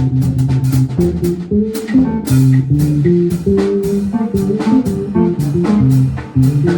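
Jazz quartet playing an instrumental passage: a moving line of low plucked-string notes over drums with frequent cymbal and drum strokes.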